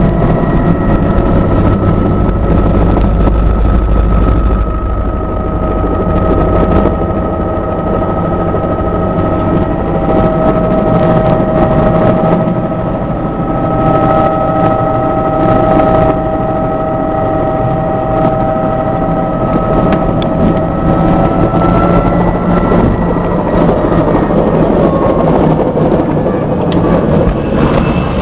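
Helicopter in flight, a loud, steady drone: a high whine over a low rumble.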